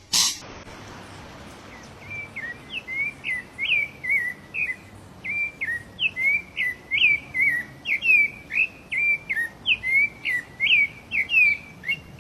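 A songbird chirping over and over, short notes that sweep up and down, about two a second, starting about two seconds in. A brief burst of noise sounds right at the start.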